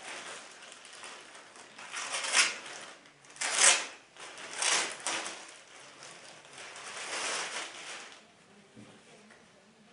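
Packaging rustling and crinkling as a cap is pulled out of it, in several noisy bursts. The loudest burst comes about three and a half seconds in, and the rustling dies away about eight seconds in.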